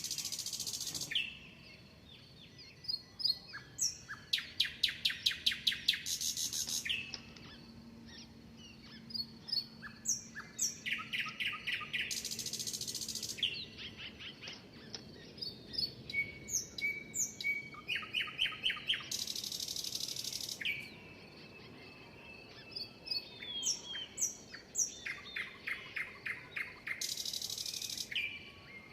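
Songbirds singing, with phrases of rapid repeated trilled notes and scattered chirps, each trill followed by a high, hissing buzz that lasts over a second; the pattern recurs about every seven seconds.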